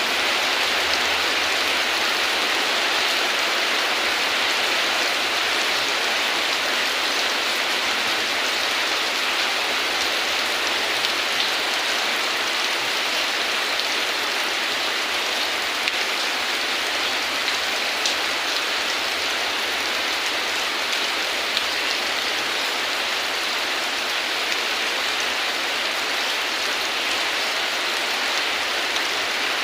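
Heavy rain falling steadily, an even hiss of rain with a few louder drops standing out now and then.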